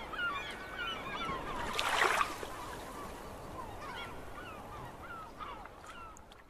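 A flock of birds calling: many short, overlapping calls, with a brief rush of noise about two seconds in.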